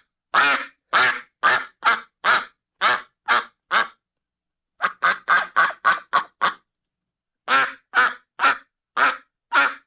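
A duck quacking in three runs of short, rapid quacks, about two a second, separated by gaps of about a second.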